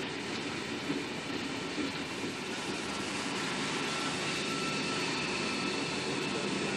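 A V-set double-deck electric intercity train pulling away and rolling past. Its wheels on the rails make a steady rolling noise, with a faint high whine that grows a little clearer later on.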